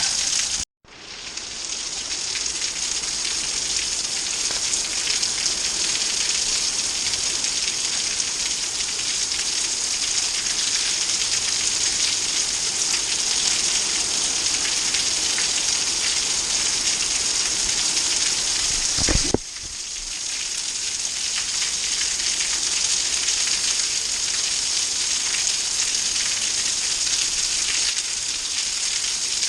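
Heavy, steady rain pouring down in a dense, even hiss; it has been falling like this for about five hours. The sound breaks off abruptly twice, about a second in and again near two-thirds of the way through.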